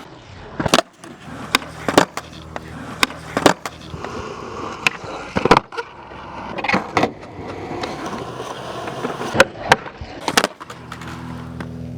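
Skateboard wheels rolling on pavement, broken by a series of sharp pops and clacks as the tail is popped and the board lands. A low engine hum comes in near the end.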